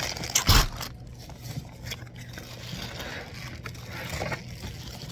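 A curtain rod and its packaging being handled: one sharp knock about half a second in, then faint scraping and rustling.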